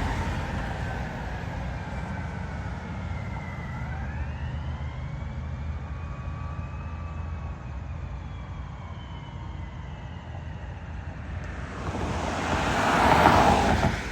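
Fire apparatus siren wailing faintly, slow rising and falling tones, over a steady low traffic rumble. A loud rush of noise swells near the end.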